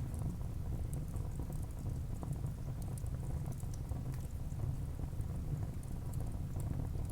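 Wood fire burning in a fireplace: a steady low rumble of flames with scattered small crackles and pops from the burning wood.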